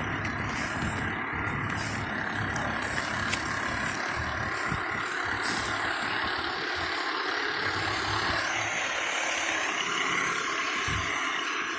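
Fire engine running steadily.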